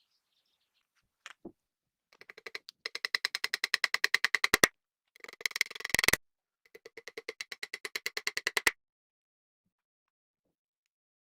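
Rapid light metallic tapping with a ringing tone, about ten taps a second, in three runs with short pauses between them: a small jewelry hammer striking metal.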